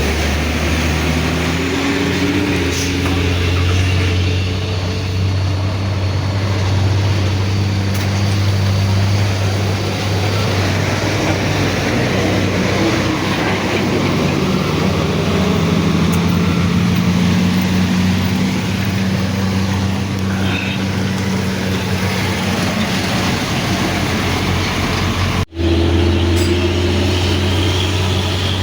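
Heavy diesel truck engine running at low revs, its pitch drifting up and down with the throttle, over road noise. The sound cuts out for an instant about 25 seconds in.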